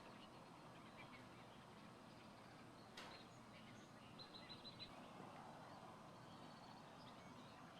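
Faint wild birds calling: scattered high chirps and a quick run of about five short high notes about four seconds in, over a low steady hiss. A single sharp click about three seconds in.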